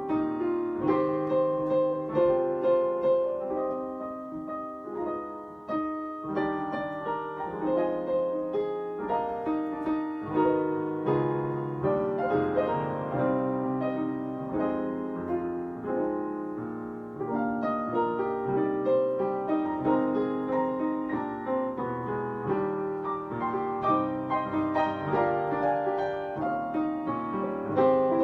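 Piano playing a flowing melody over held chords, note after note with the sustain ringing on.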